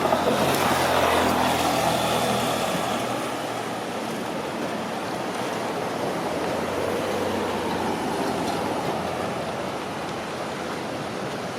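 A motor vehicle passes close by, its engine noise swelling about a second in and fading over the next couple of seconds, then a steady wash of surf and traffic noise.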